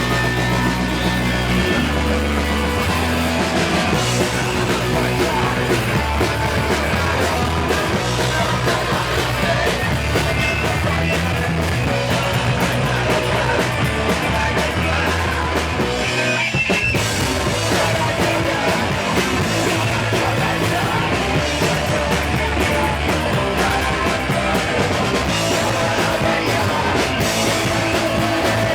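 Punk band playing live and loud: distorted electric guitars, bass and drums, with shouted vocals.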